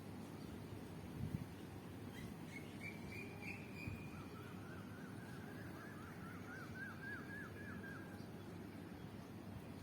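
Bird calling: a short high trill about two seconds in, then a run of quick, hooked chirps repeated several times a second for about four seconds, over a steady low background noise.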